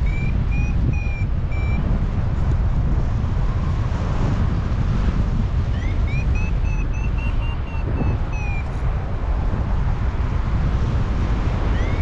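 Paragliding variometer beeping in quick chirps that rise in pitch, the climb tone that signals the glider is going up in lift. It beeps for about two seconds, stops, comes back about six seconds in for a couple of seconds, and starts again just before the end. Heavy wind buffets the microphone throughout and is the loudest sound.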